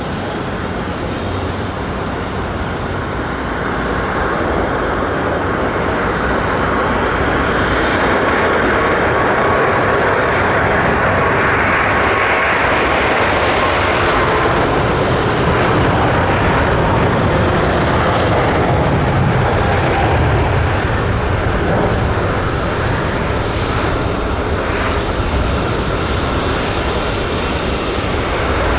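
Jet noise from a Boeing 747-400's four engines as the airliner passes, swelling over the first few seconds and staying loud, with a faint whine that slides slightly lower in pitch.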